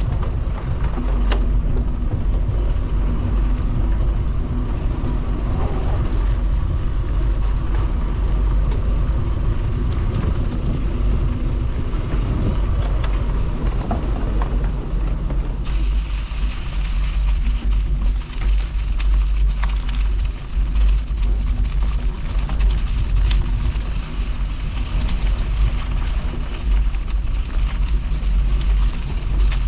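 Wind buffeting a bike-mounted microphone as a bicycle rides along a path: a steady, heavy low rumble with a rolling haze of tyre noise and many small rattles and ticks.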